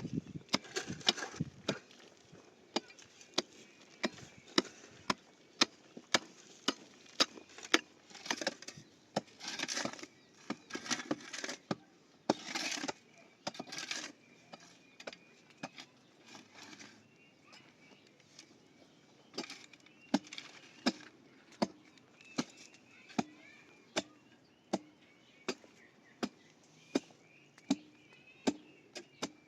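A hand tool striking over and over at an even pace, about three sharp blows every two seconds, with bursts of scraping between blows in the middle stretch.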